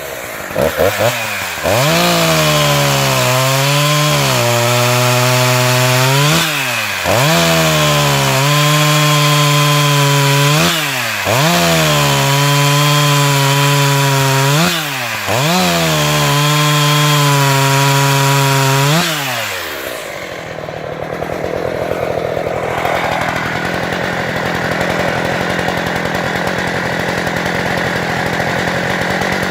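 Husqvarna 357 XP two-stroke chainsaw engine. It gives a few short revs, then runs at high revs with its pitch sagging and recovering about five times. About 20 seconds in, it drops to a lower, rougher, steady run.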